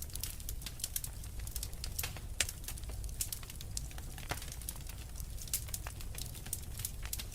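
Fireplace fire crackling: dense, irregular snaps and pops, a few of them louder, over a low steady rumble.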